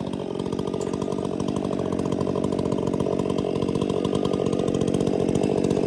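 Small engine running steadily, growing slowly louder.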